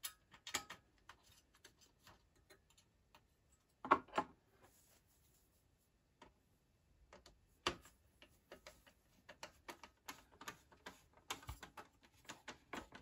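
Small clicks and ticks of a hand screwdriver driving T15 screws into the Macintosh 512Ke's metal chassis. There are a few louder knocks of metal on metal, about half a second in, around four seconds and near eight seconds, then a quicker run of light clicks.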